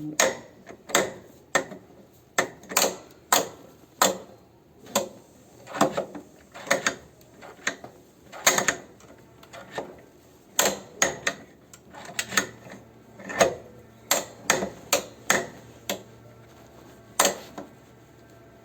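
Parts of a washing machine's drive mechanism clicking and knocking as they are worked by hand: a string of sharp, dry knocks at irregular intervals, some in quick pairs, stopping shortly before the end.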